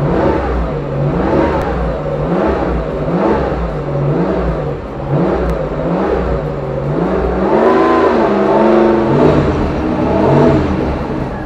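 Turbocharged Pontiac Fiero engine being revved in quick repeated blips, a little more than one a second, then held at higher revs for a couple of seconds near the end. The engine is still blowing coolant out as steam, which the owner fears means cracks in the head.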